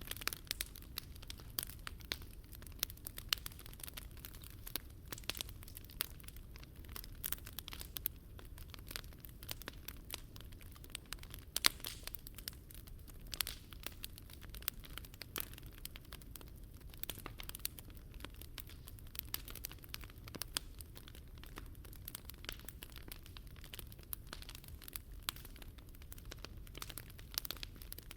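Wood fire burning in a Picogrill 398 fire pit, crackling and popping irregularly over a low steady rumble, with one sharper pop about twelve seconds in.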